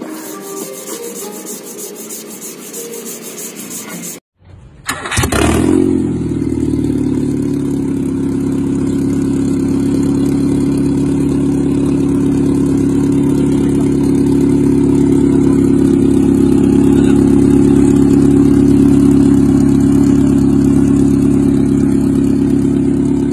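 Rhythmic scraping of sandpaper worked by hand on a metal crankshaft journal. After a short break, about five seconds in, a Nissan twin-cam 16-valve four-cylinder engine starts, flares briefly and settles into a loud, steady idle. The engine is freshly rebuilt with a redone connecting-rod bearing, and its rod knock is gone.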